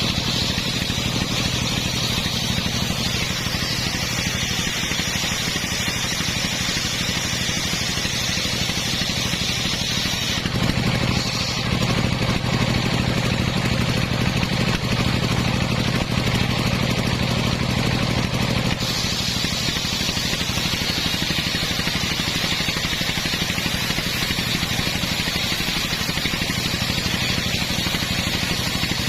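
Engine of a homemade circular sawmill running steadily. For about eight seconds in the middle its low note grows heavier, then it settles back.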